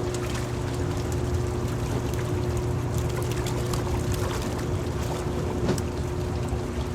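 Water pouring and splashing through a river smolt trap, over a steady low machine hum, with scattered small clicks.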